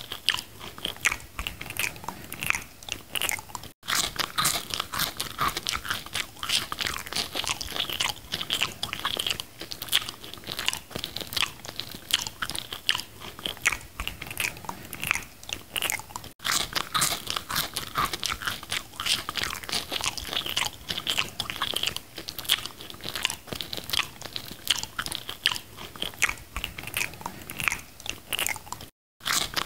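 Close-miked eating of McDonald's food: steady chewing and crunching with many small wet mouth clicks, broken off abruptly for a moment a few times.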